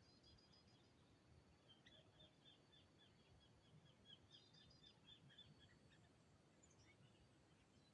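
Faint sooty-headed bulbul (kutilang) calling: a run of short chirps, about three to four a second, starting about two seconds in and stopping past the middle.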